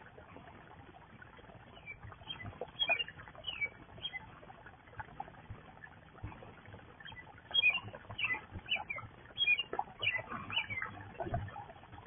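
Small songbirds chirping in short notes, in two bursts, a couple of seconds in and again from about seven to ten seconds in, with light splashing and pattering of a bird bathing in shallow pond water. Picked up by a security camera's microphone, which cuts off the higher sounds.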